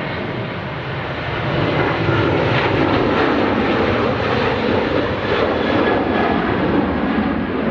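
Ryanair Boeing 737-800's CFM56-7B jet engines at takeoff power, a loud rushing jet noise that swells about a second and a half in and then holds.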